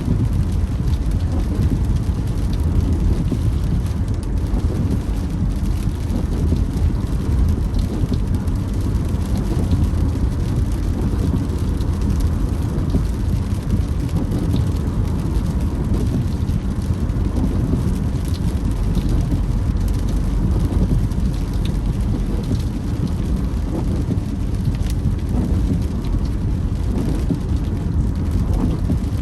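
A car driving in rain: a steady low rumble of the road and engine, with rain hitting the car and faint scattered ticks.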